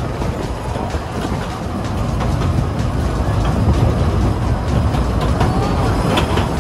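Kurobe Gorge Railway narrow-gauge trolley train running, heard from an open car: a steady rumble of wheels on the rails that gets louder about two seconds in.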